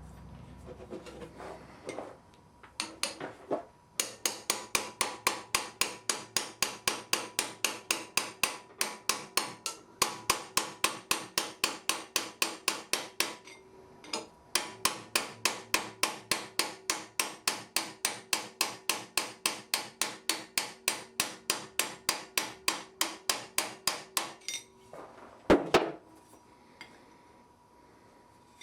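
Blacksmith's hammer striking steel on an anvil in fast, even blows, about four a second, in long runs broken by short pauses, followed by one louder knock near the end.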